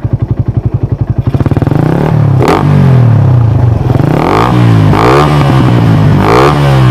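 Suzuki Raider 150 motorcycle's single-cylinder four-stroke engine through its exhaust: a loping idle of separate loud pulses, then the throttle is blipped, the revs climbing and falling back about three times.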